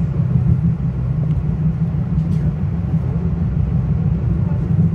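Steady low rumble of a Metro-North commuter train running along the track, heard from inside the passenger car.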